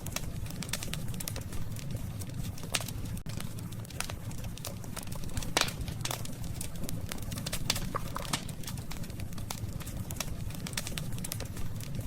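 Wood campfire burning with a steady low rumble and frequent irregular crackles and pops. The loudest pop comes about five and a half seconds in.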